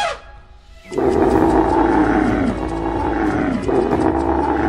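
Three long, falling roars from a large animal, starting about a second in.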